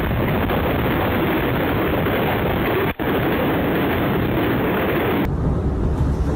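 Loud, steady rushing roar of tornado winds at close range. It cuts out for an instant about three seconds in, and near the end it gives way to a deeper rumble of wind on the microphone.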